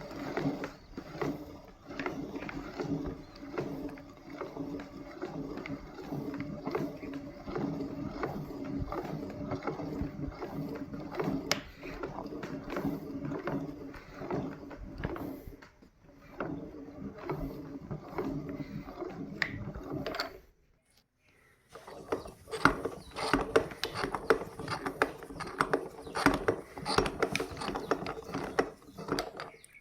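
Meat grinder crushing sticks of chalk: a steady mechanical running sound laced with dense crackling and clicking as the chalk breaks up. It stops briefly about two-thirds of the way through, then resumes with louder, sharper crunches.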